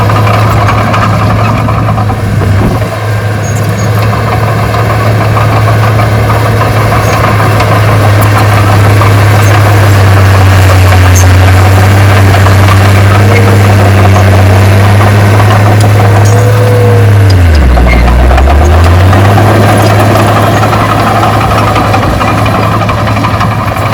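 Diesel engine of heavy earthmoving machinery running loud and steady. Its note drops sharply about three-quarters of the way through, then comes back up.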